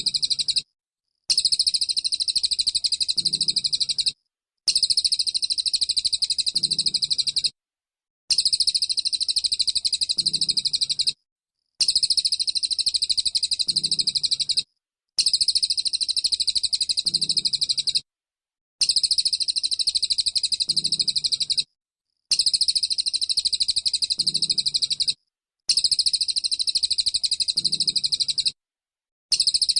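White-eye (pleci) song in rapid-fire 'tembakan' style: dense, high-pitched trilling chatter. It comes in matching bursts of about three seconds, each broken off by a short clean silence, so the same stretch repeats about every three and a half seconds as a loop.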